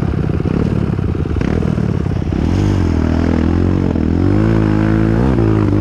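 Trail motorcycle engine chugging with rapid, uneven pulses for the first two seconds, then revving in gear, its pitch rising and falling several times.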